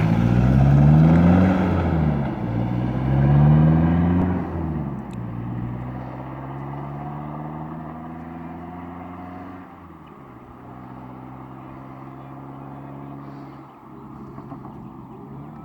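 Ford PK Ranger with a 3-inch muffler-delete exhaust accelerating hard, the engine note climbing twice as it pulls through two gears. After about four and a half seconds it settles to a steady cruising drone that grows fainter as the ute moves away.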